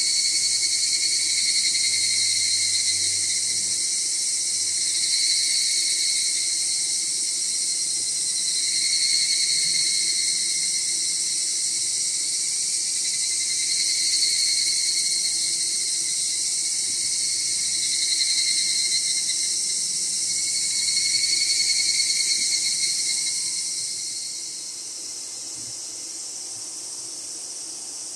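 A dense chorus of summer insects: a high, hissing drone with two pitched tones that swell and fade in waves every few seconds. The chorus drops away about three-quarters of the way through, leaving a quieter high hiss.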